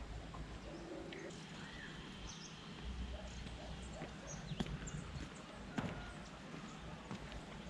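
Faint, short, high chirps of small birds over a low rumble, with two sharp knocks about halfway through.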